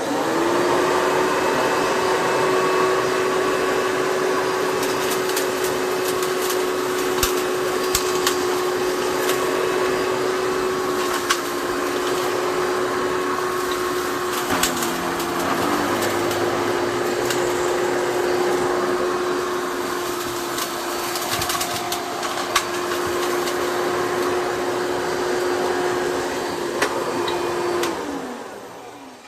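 Hoover Bagless Twin Chamber vacuum cleaner running steadily over a floor strewn with test dirt, with scattered sharp clicks of debris being sucked up. Near the end it is switched off and the motor winds down.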